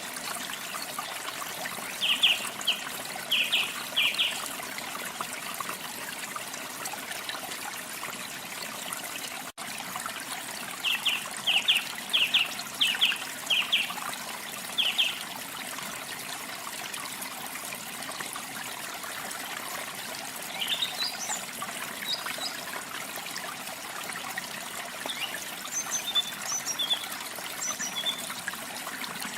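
Steady trickling and splashing of a small waterfall, with songbirds calling over it: two runs of short, quickly repeated notes, then scattered higher chirps near the end. The sound drops out for a split second about nine and a half seconds in.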